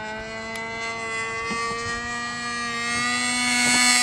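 Super Tiger glow engine of a radio-controlled model airplane running at high throttle in flight: a steady high-pitched whine that grows steadily louder and rises slightly in pitch as the plane comes closer.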